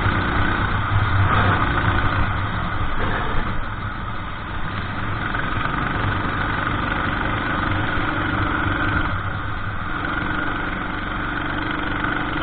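Kart engine running under race load, heard onboard; its note dips twice, about three to four seconds in and again about nine seconds in.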